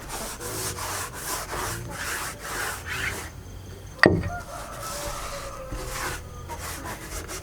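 Back-and-forth strokes of a hand tool rubbing across wood, about three a second, broken by a short pause and one sharp knock about four seconds in, then picking up again.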